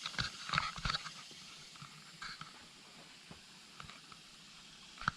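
A few light knocks and rustles in the first second, then faint outdoor background with scattered small ticks.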